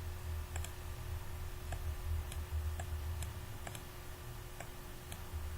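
A string of light, irregularly spaced computer mouse clicks, roughly one to two a second, over a low steady hum.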